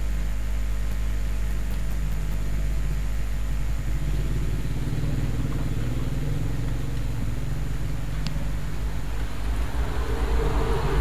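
A steady low mechanical drone that grows fuller about four seconds in and louder near the end.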